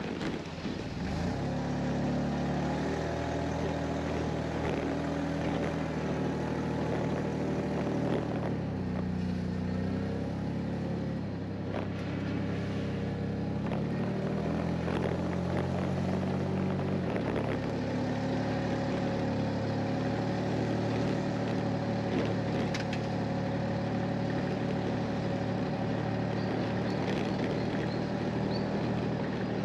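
Four-wheel-drive vehicle's engine running steadily on an unsealed track, its pitch dipping and rising several times with throttle and gear changes, with scattered light knocks and rattles.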